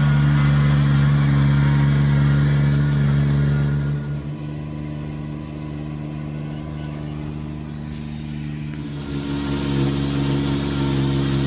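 Engine of a Kubota rice transplanter running steadily at constant speed. It grows quieter for several seconds in the middle and is louder again near the end.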